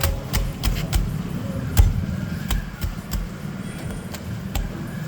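A series of sharp, irregular knocks and thuds, two or three a second, with the loudest about two seconds in, over a steady low hum.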